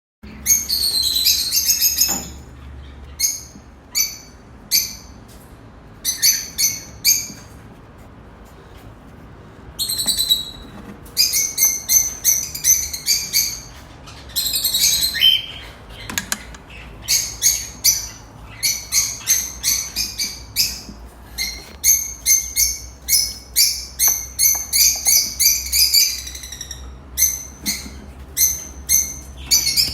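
Newborn cockatiel chicks calling: runs of short, high-pitched chirps repeated several times a second, with a few short pauses.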